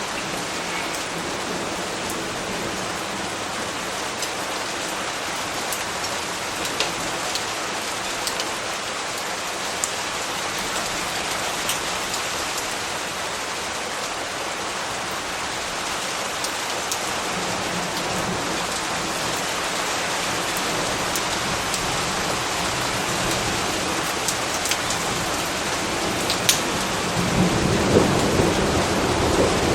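Steady rain falling, with scattered sharp drop ticks over the even hiss. A low thunder rumble swells near the end.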